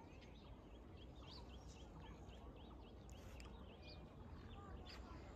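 Faint bird calls: a quick series of short rising chirps, several a second, in the first half, then scattered calls, over a low rumble.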